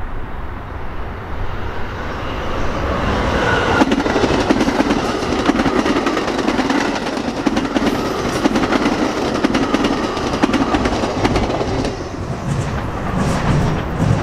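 A train passing close by, its wheels clicking over the rails. The sound builds over the first few seconds, stays loud through the middle and eases off near the end.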